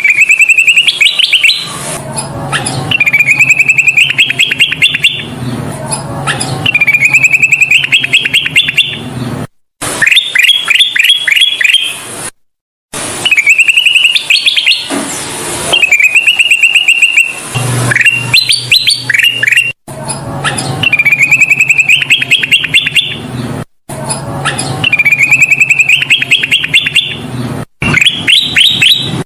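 Kutilang emas (a bulbul) singing over and over: loud, fast phrases of rapid rising chirped notes, one about every two to three seconds. A few brief dropouts to silence break the song, and a faint low hum runs underneath.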